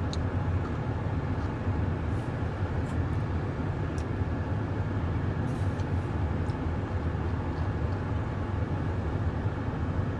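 Steady low rumble of a truck's idling engine heard inside the cab, with a few faint clicks on top.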